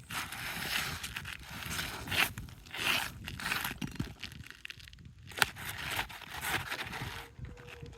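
Brittle roof shingles scraping and crunching in irregular strokes as they are worked by hand, with a sharp knock about five and a half seconds in.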